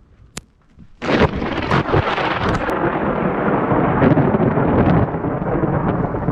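A thunderclap breaking suddenly about a second in, then a long, loud rumble of thunder.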